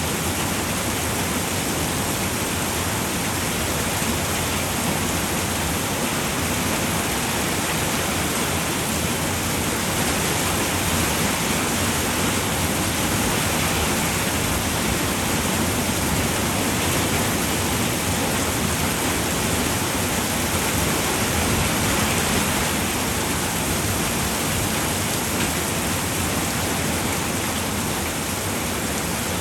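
Rain falling steadily on a roof, an even hiss that holds the same level throughout.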